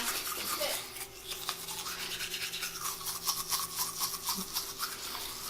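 Toothbrush scrubbing teeth in quick, repeated rasping strokes, over a faint steady hum.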